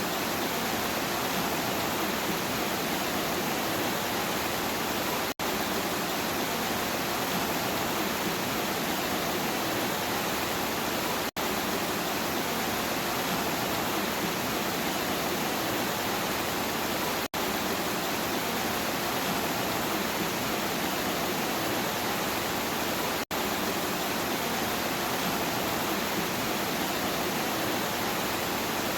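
Steady, even rain noise with no thunder, cutting out for a split second about every six seconds where a looped recording repeats.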